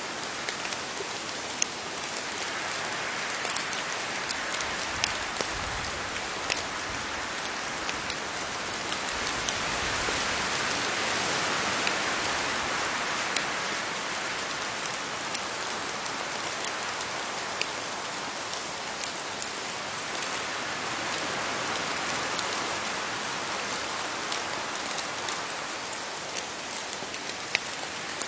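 Steady rain pattering on leaves, a dense hiss of drops with scattered sharper individual drop hits, swelling slightly midway.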